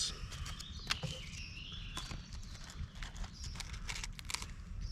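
Heart of romaine lettuce being broken up by hand: an irregular run of crisp snaps and crunches.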